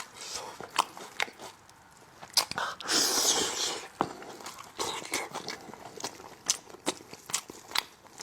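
Close-up eating sounds: chewing and biting into braised spicy lamb chops, with many sharp wet clicks and crunches. About three seconds in there is a louder noisy stretch lasting about a second.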